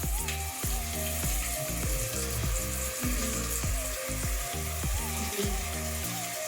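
Oil sizzling in a pan as ginger-garlic paste fries with green chillies and onions. Background music with a steady beat plays under it, its bass cutting out near the end.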